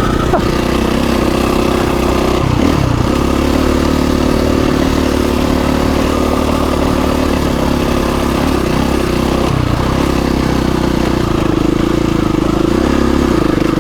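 KTM 350 EXC-F dirt bike's single-cylinder four-stroke engine running under way, its note dipping briefly twice and climbing back.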